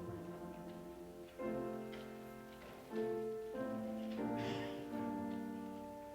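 Slow piano music: sustained chords struck one after another, each fading away before the next.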